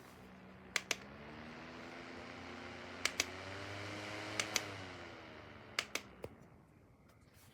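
Koonie rechargeable portable fan's motor humming while its button is clicked: after the first pair of clicks the hum rises in pitch as the fan speeds up, it climbs again after the next clicks, and after a third pair the pitch slides down and fades as the fan is switched off and spins down. More button clicks follow near the end.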